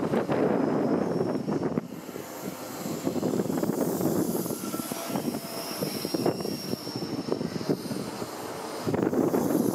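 A First Great Western HST (InterCity 125) rolling slowly past along the platform: a steady rumble and rattle of the Mark 3 coaches' wheels on the track with the diesel power car running. It is louder for the first two seconds, drops, then rises again near the end, with a faint high whine in the second half.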